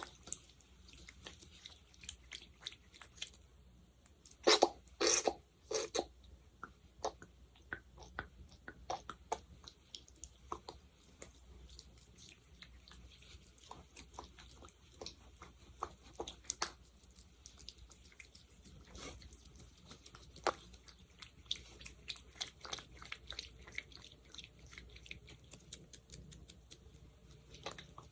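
Close-miked sticky ASMR sounds: fingers working a sticky gel, making irregular wet clicks and crackles. There is a louder burst of them about four to six seconds in.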